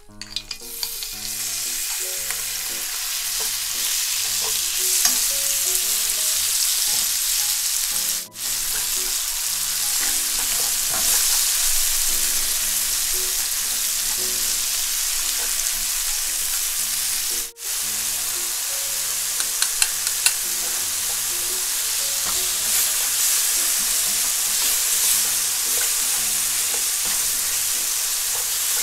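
Kimchi sizzling in hot cooking oil in a nonstick frying pan as it is stir-fried with a wooden spatula, with occasional taps and scrapes of the spatula. The sizzle starts about a second in as the kimchi hits the oil and cuts out very briefly twice.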